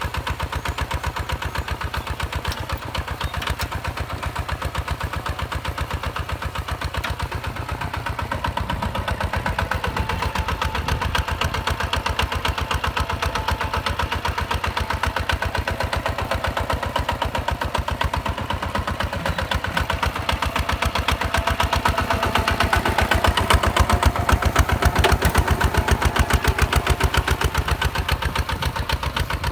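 Hinota HG Gold 155 DI tractor's diesel engine running steadily with a rapid, even firing beat, getting a little louder about two-thirds of the way in and easing back near the end.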